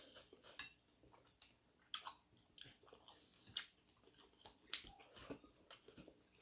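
Faint eating sounds of someone chewing grilled chicken inasal eaten by hand: scattered short clicks and smacks, irregular, about one or two a second.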